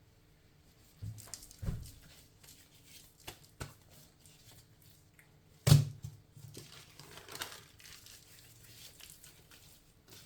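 Kitchen handling noise: crinkling and rustling with scattered light knocks, the loudest a sharp knock a little past halfway.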